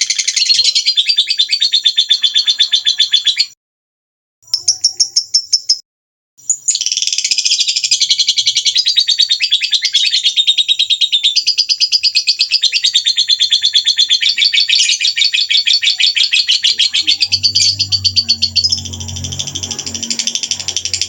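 Small songbirds singing a fast, high-pitched, unbroken string of trills and twitters. It is cut off twice by abrupt total silences about four and six seconds in. A low hum joins under the song near the end.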